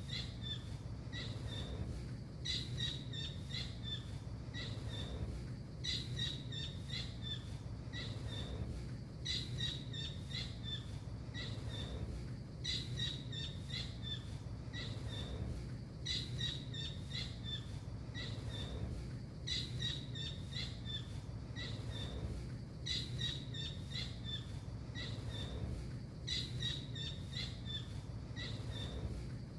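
Blue kingfisher (tengkek biru) calling: a phrase of short, sharp, high chirps that repeats almost identically about every three and a half seconds, as in a looped bird-training recording, over a steady low hum.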